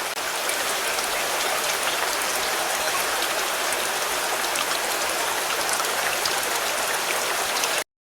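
Steady rain falling on a car, a dense hiss with many separate drop ticks; it cuts off suddenly near the end.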